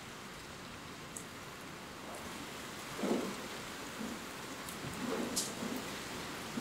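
Steady rain falling, with drops pattering close by and a few louder dull thuds about three and five seconds in.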